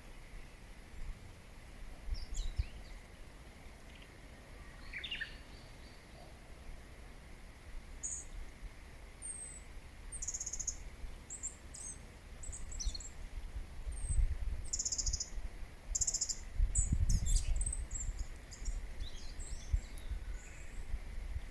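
Small songbirds chirping and twittering in short high calls, a few scattered early on and a busy run of them from about eight seconds in. A low rumble runs underneath, strongest past the middle.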